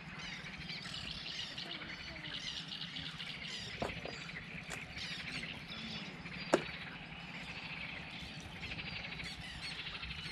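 Several songbirds chirping and trilling on and off, with a low steady hum underneath. A sharp click just under four seconds in, and a louder single click about six and a half seconds in.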